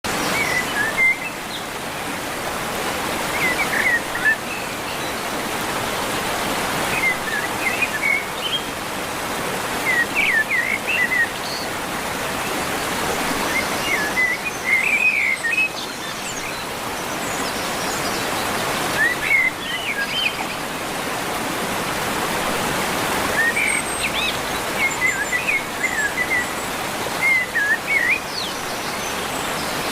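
Small birds chirping in short clusters every few seconds, over a steady rushing hiss.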